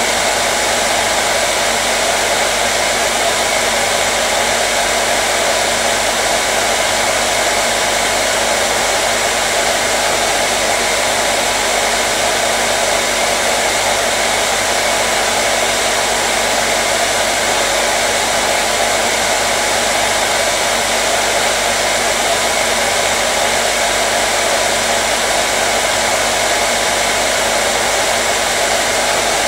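Electric hair dryer running continuously: a steady, even rush of blown air with a faint motor hum underneath.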